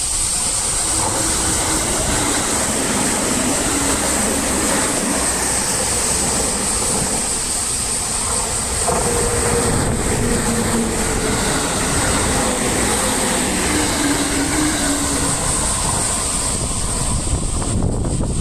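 Electric train passing close by, a continuous rumble of wheels on rail, with a few faint humming motor tones that shift in pitch.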